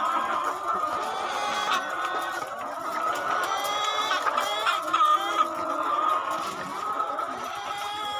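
A flock of laying hens clucking and calling together in a dense, overlapping chorus, with a few louder, drawn-out calls about halfway through.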